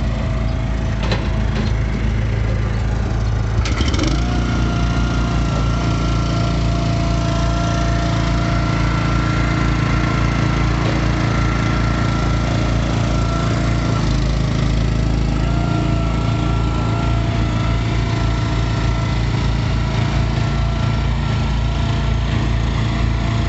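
Easton Made 916 log splitter's small gas engine running steadily. About four seconds in its note changes and a thin steady whine comes in over it.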